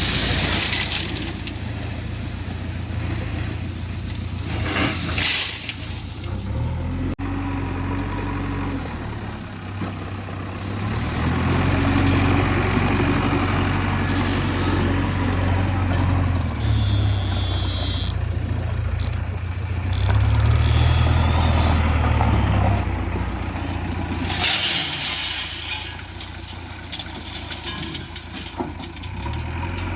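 Diesel engine of a JCB 3DX backhoe loader running steadily and revving up twice under load. Three short rushes of noise, at the start, about five seconds in and near the end, are likely crushed stone pouring from the bucket into a tractor trolley.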